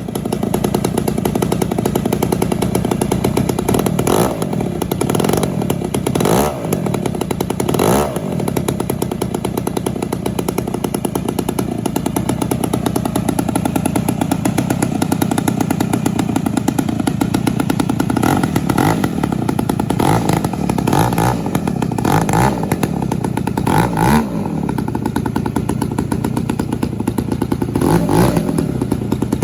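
Zenoah G62 single-cylinder two-stroke gas engine of a giant-scale model airplane running on its first start-up. It holds a steady idle and is blipped up in revs and back down again and again.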